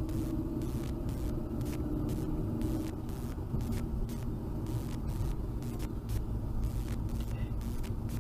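Car driving, with a steady engine hum and road rumble heard from inside the cabin, and faint clicks scattered throughout.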